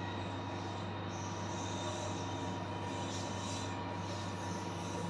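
Steady interior hum of a Kintetsu limited express train car, with a thin steady whine over it.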